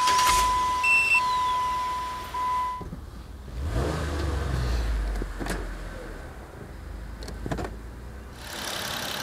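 A steady high-pitched electronic beep with a couple of short breaks, stopping about three seconds in. Low rumbling handling noise and two sharp clicks follow. Near the end a steady engine idle comes in.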